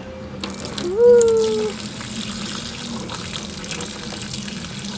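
Water running from a tap, filling a container to take to a child's water table, starting just under half a second in and running steadily. A short voice sound is heard about a second in.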